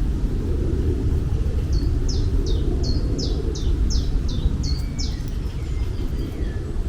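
A bird calling a quick run of about ten short, high chirps, each sliding downward, about three a second, over a steady low outdoor rumble.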